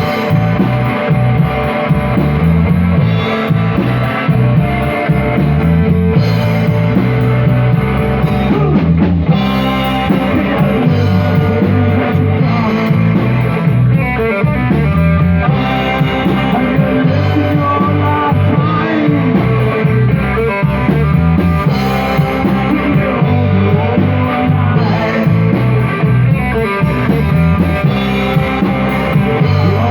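Rock band playing live, with guitar and drum kit.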